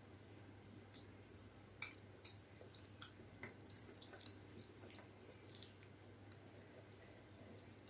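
Faint, wet mouth clicks and smacks of a person chewing soft food (khichdi with chicken curry), coming irregularly over a low steady hum.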